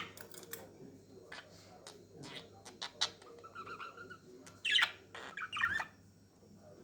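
Budgerigars chirping and warbling in short, irregular bursts, loudest in two clusters of rapid chirps about two-thirds of the way through.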